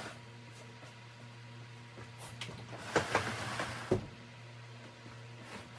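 A few light knocks and bumps of household items being set back in place after mopping, over a steady low hum.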